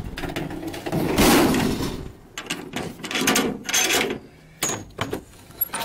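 Gear being handled and stowed: a scraping slide about a second in, then a string of separate knocks and clunks, like latches and doors being worked.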